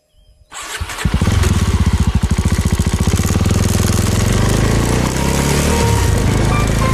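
Suzuki Thunder 250 motorcycle's single-cylinder engine starting about half a second in, firing with a fast even beat at first, then running steadily.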